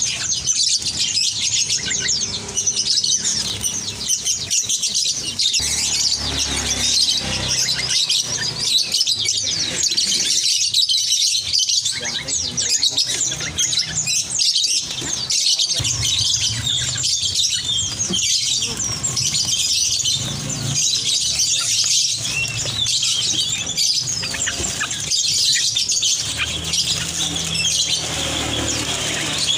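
Many caged songbirds chirping and twittering at once, a dense, unbroken chorus of high calls.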